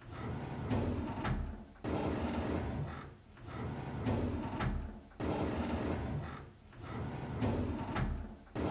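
A drawer being slid open on its runners, a rattling slide that starts abruptly, repeated about every three and a half seconds in a loop.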